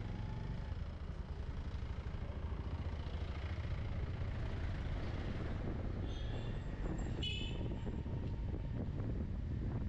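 Motorbike running along the road, a steady low rumble of engine and road noise. A brief high-pitched sound cuts in about six to seven seconds in.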